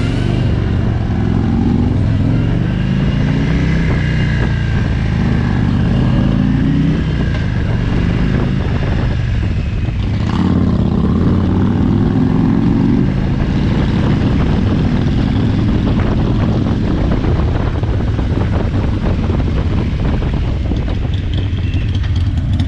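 Harley-Davidson Road King's Milwaukee-Eight 107 V-twin (1745 cc), with its chrome dual exhaust, running under way and heard from the rider's seat. Its note rises several times as the bike pulls away and picks up speed, drops briefly about halfway through, then rises again over a steady low rumble.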